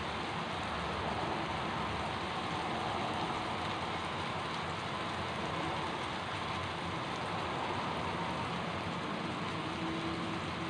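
Sliced saba bananas frying in shallow oil in a pan, a steady sizzle, the slices at the golden-brown stage.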